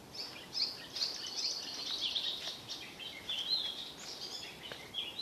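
Songbirds singing in the forest: many short, high chirping notes from more than one bird, overlapping without pause.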